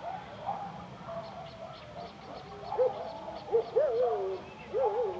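Several distant animals calling in overlapping, wavering cries, louder in the second half, over a faint run of short high chirps.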